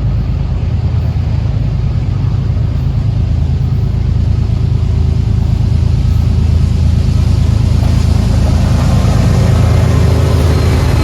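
Diesel locomotive engines running with a deep, steady rumble. From about seven seconds in, a brighter, noisier sound builds on top and the whole sound gets a little louder.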